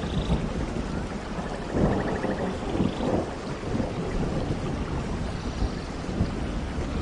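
Tropical rain falling steadily with a low rolling rumble of thunder underneath. A few faint, short bird trills come through the rain.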